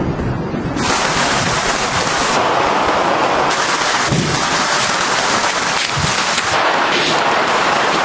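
Heavy rain falling, a dense steady hiss that comes in suddenly about a second in, over a low rumble.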